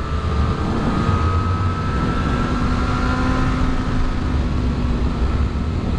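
Honda CBR600RR inline-four sport bike engine running at a steady, near-constant rpm while cruising, heard from the rider's position under heavy wind rumble.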